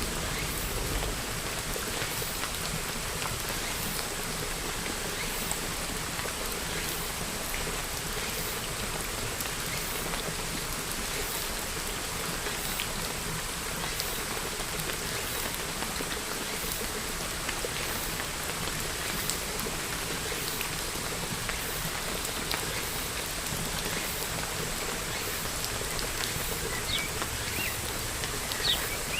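Steady rain falling, a dense, even patter of drops. A low thunder rumble dies away in the first second, and a few bird chirps come in near the end.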